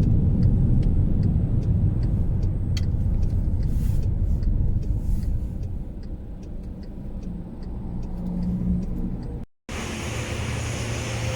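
Car on the move, heard from inside: a steady low rumble of engine and road noise, with light clicks here and there. About 9.5 s in the sound drops out and cuts to a steadier hum with more hiss.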